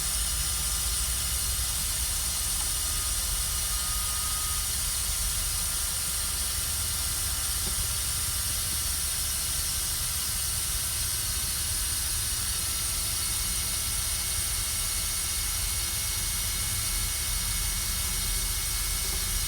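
Truck air brake system hissing steadily with the service brake held applied, air slowly escaping: a loss of about 3 psi in a minute.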